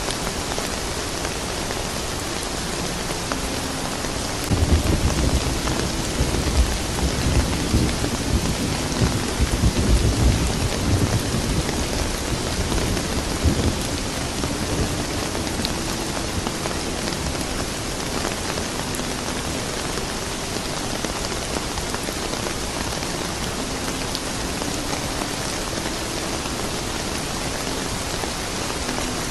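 Steady rain falling, with a long rumble of thunder that swells about four seconds in and fades away after about ten seconds.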